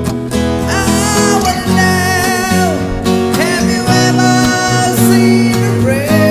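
Music: strummed acoustic guitar chords with a held, wavering melody line over them.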